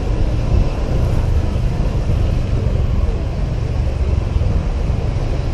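Honda PCX 125 scooter under way in traffic, heard from a helmet camera: a steady low rumble of engine and road noise with surrounding traffic.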